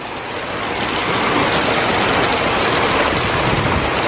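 Strong thunderstorm wind gust buffeting the microphone, a loud rushing, rumbling noise that builds over the first second and then holds steady.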